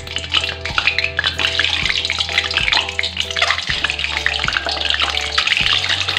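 Peeled hard-boiled eggs frying in hot oil in a wok, with a steady crackling sizzle full of small pops. Background music with a repeating melody plays along.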